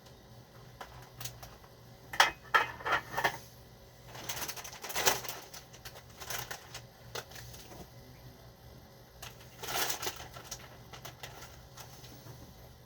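Scattered clicks and taps of tableware, with a cluster of sharp knocks about two seconds in and short rattling bursts around five and ten seconds in.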